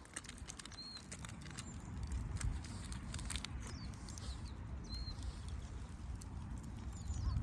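Wood fire in a fire pit crackling with scattered sharp pops over a low rumble. A bird chirps briefly about a second in and again about five seconds in.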